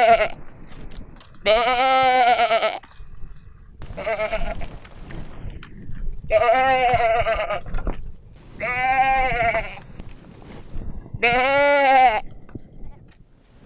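A man imitating a goat's bleat with his voice: about six long, wavering calls, one every two seconds or so, the one near four seconds in fainter and shorter.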